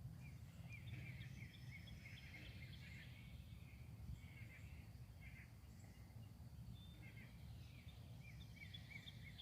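Faint songbird chirping: runs of short, quick, repeated notes, first in the opening couple of seconds, then again about two thirds of the way in, over a steady low rumble.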